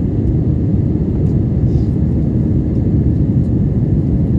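Steady low rumble of a jet airliner's engines and airflow during the takeoff climb, heard from inside the passenger cabin.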